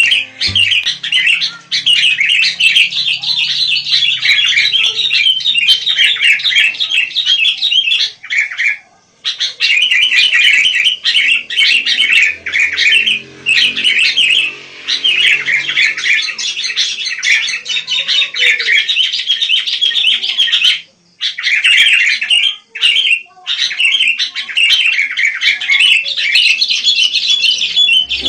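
Sooty-headed bulbul (kutilang) chattering in rapid, dense runs of calls, broken by two short pauses, about nine and twenty-one seconds in.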